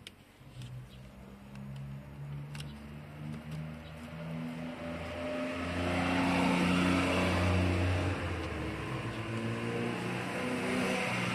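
A motor vehicle engine running nearby, getting louder over several seconds, its pitch stepping up and down as it revs. A few light clicks sound in the first seconds.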